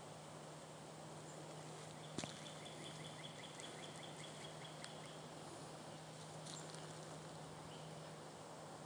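Quiet woodland outdoor ambience with a low steady hum. A bird gives a rapid trill of repeated high notes, about six a second, starting about two seconds in and lasting about three seconds, just after a single sharp click.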